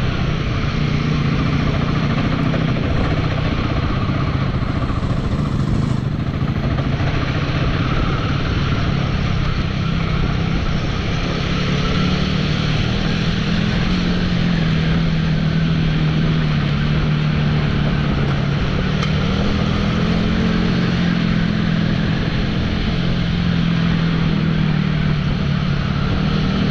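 Royal Enfield motorcycle engine running steadily while riding, its note drifting slowly up and down, over a steady rushing noise.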